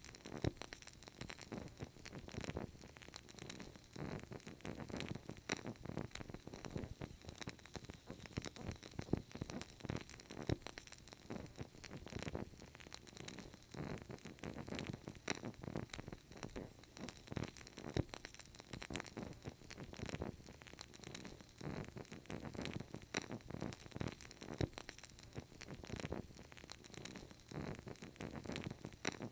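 Burning candle giving off a dense, irregular soft crackling.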